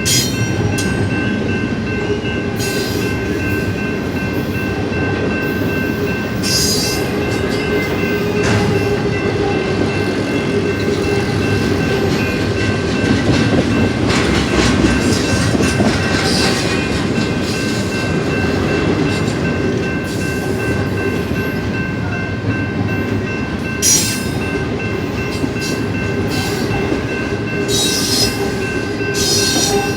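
Union Pacific intermodal freight train rolling past: a steady, loud rumble of wheels on rail, with a thin steady high ringing over it and short hissy bursts every so often.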